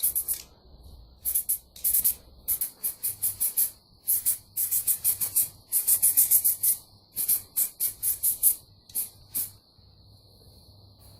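Quick runs of short hand rubbing or scrubbing strokes, several a second with brief pauses, stopping near the end and leaving a faint steady high whine.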